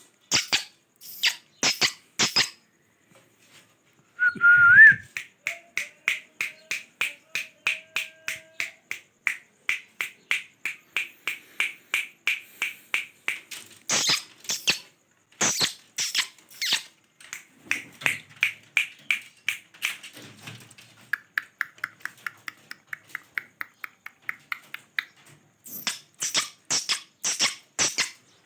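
Parrot making a long run of short, repeated clicking calls, about two to three a second, with a brief rising whistle about five seconds in and some sharper clicks among them.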